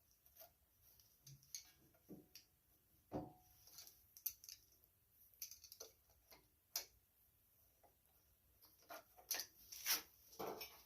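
Faint, irregular clicks and light knocks of hands working a rubber gas line loose from a lawn mower carburetor's fuel fitting, twisting it to break the seal.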